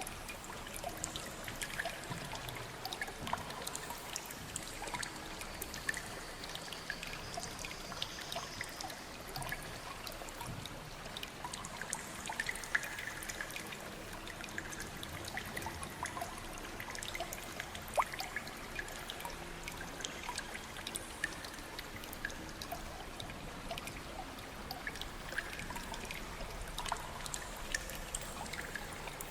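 Water trickling and dripping: a steady wash of running water scattered with many small drips and splashes.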